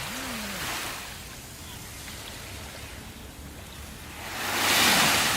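Ocean surf: a steady wash of waves, with one larger wave swelling up and breaking near the end.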